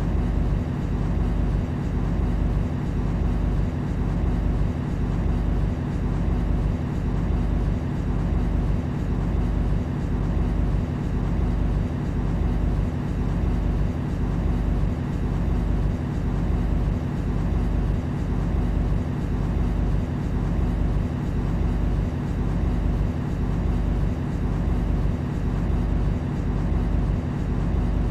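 Interior noise of an MTR Tseung Kwan O line C-Train: a steady rumble and hum, with a low thud repeating about once a second at an even pace.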